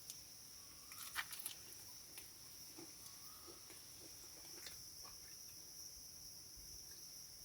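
Insects keeping up a steady, high-pitched trill in the forest. A few light clicks or knocks sound about a second in.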